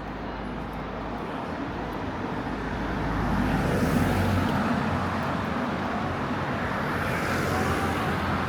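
Road traffic: a car passing close by on a city street, its tyre and engine noise swelling to a peak about four seconds in and again near the end.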